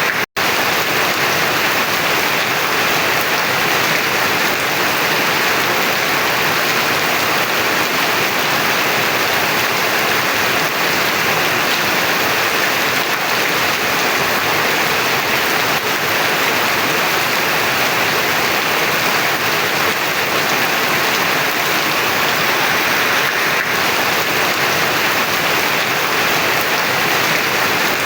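Heavy rain falling in a steady, dense hiss. The sound cuts out for a split second just after the start.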